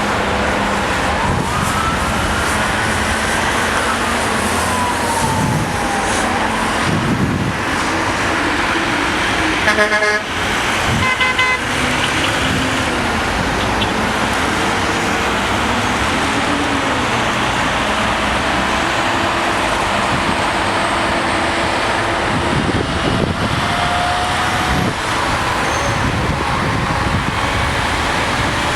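Steady freeway traffic noise, with two short car horn honks about ten seconds in, a little over a second apart.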